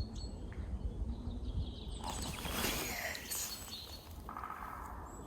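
Woodpecker drumming, a short, fast roll of knocks on wood near the end, echoing through the forest. Earlier a brief rush of noise passes through.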